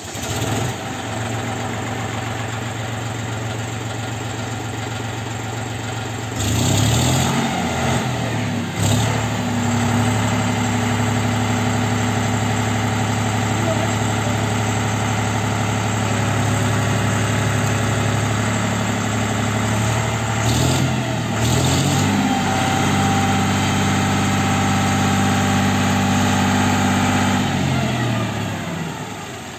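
John Deere 5045D tractor's three-cylinder diesel engine running, revving up about six seconds in and holding a higher speed. It dips briefly about two-thirds of the way through, picks up again, and slows near the end.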